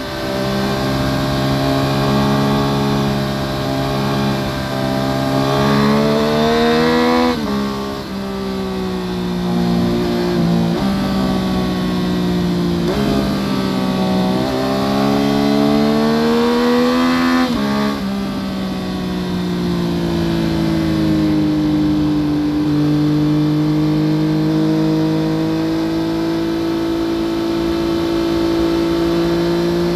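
2014 Yamaha FZ-09's inline three-cylinder engine through an Akrapovic full exhaust, pulling hard: the revs climb and drop sharply at upshifts about 7, 11 and 18 seconds in, then hold near steady cruising revs, slowly rising. Heard from under the motorcycle's seat.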